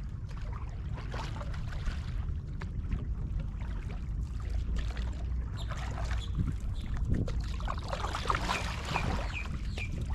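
Water lapping and trickling against a kayak hull, with a steady low rumble underneath. A few short high chirps come near the end.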